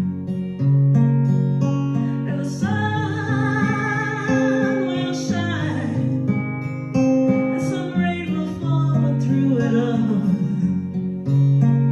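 Acoustic guitar strummed and picked in a song, with a voice singing long held notes with vibrato over it.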